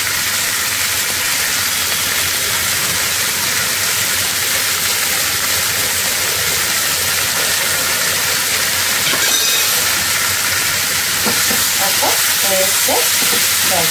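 Boiled potatoes, green peas and vegetables sizzling steadily in oil in a nonstick frying pan over a gas flame, with a silicone spatula stirring through them near the end.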